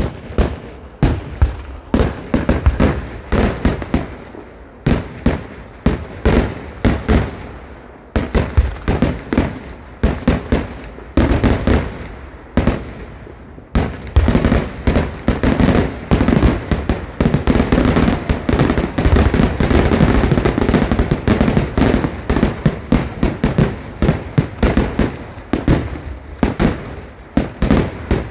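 A rapid barrage of loud firecracker bangs, several a second, with short lulls, swelling about halfway through into a near-continuous volley before thinning out again.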